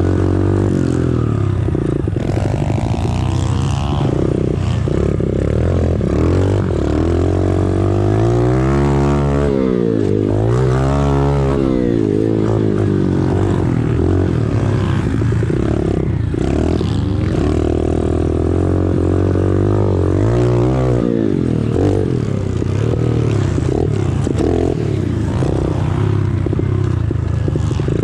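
Small single-cylinder four-stroke pit bike engine ridden hard around a dirt track, revving up and backing off again and again, with quick rises and drops in pitch around the jumps and corners.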